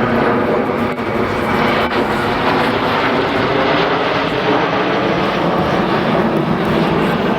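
Jet engines of the Patrouille de France's Alpha Jet formation in flight: a loud, steady rush of jet noise.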